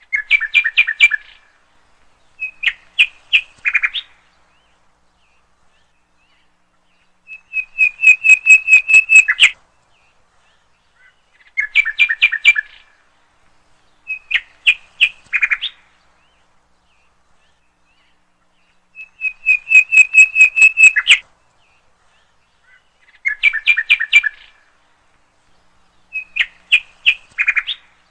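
Bird chirping in short phrases of rapid whistled notes, a few seconds apart, with dead silence between. The same three phrases repeat in the same order, like a looped bird-song track.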